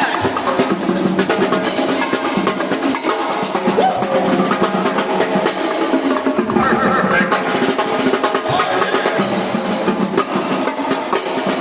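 Loud drum-heavy music: fast snare and drum strikes with rolls, bass drum and a musical backing, playing continuously.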